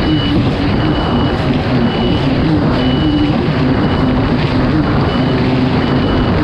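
Kawasaki STX 160 jet ski's four-stroke inline-four engine running hard and steadily, its pitch wavering slightly, with water and hull noise. A short high beep sounds roughly once a second.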